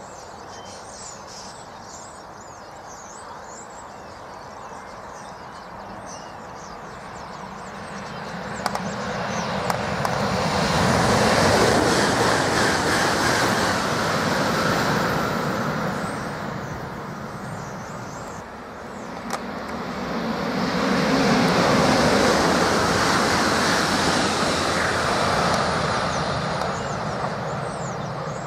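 Southeastern Class 395 Javelin high-speed trains passing on High Speed 1: a loud rushing swells up and fades away, once near the middle and again about three quarters of the way through.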